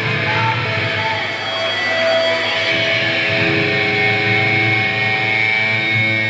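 Live distorted electric guitar ringing out with held notes and feedback tones over a steady low bass drone, from a grindcore band on stage.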